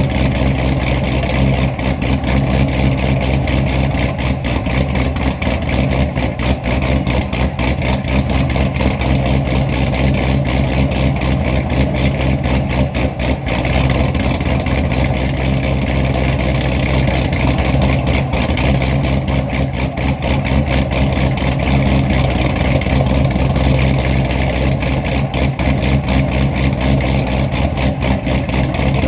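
Supercharged LS V8 in a C6 Corvette idling steadily with the choppy, uneven lope of an aggressive camshaft.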